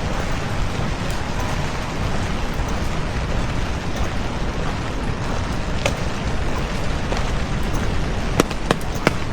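Heavy typhoon rain falling, a steady hiss with a strong low rumble of wind buffeting the microphone. Several sharp taps of drops striking come near the end.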